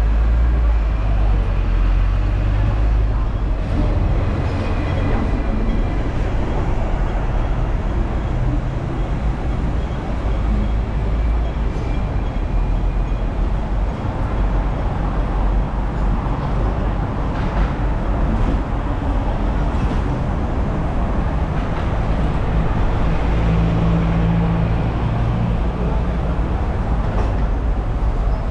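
Hong Kong double-deck electric tram running along its street track: a steady low rumble with a few light clicks and faint high squeals.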